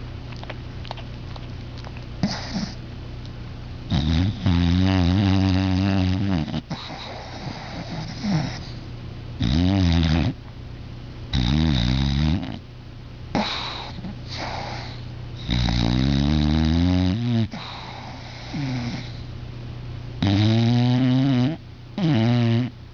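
English bulldog snoring in its sleep: loud snores of one to two seconds each come at irregular gaps of a few seconds, with a few fainter ones in between.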